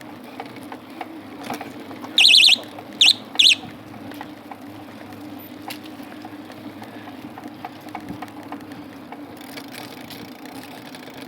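Three short, loud, high-pitched whistle-like blasts, the first the longest, over a steady low hum with scattered light clicks.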